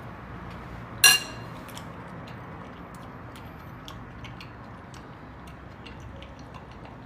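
Cutlery clinks once against a dish about a second in, sharp and briefly ringing, followed by a few faint small clicks of utensils over steady low room noise.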